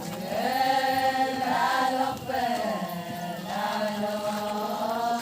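Voices chanting an Adi Ponung folk song: long held, sliding notes in a slow sung phrase.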